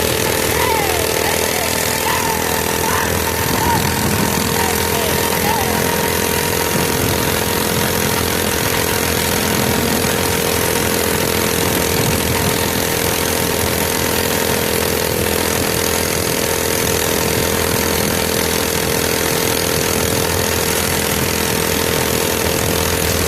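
Mini bike's small engine running at a steady speed, with a steady hiss underneath.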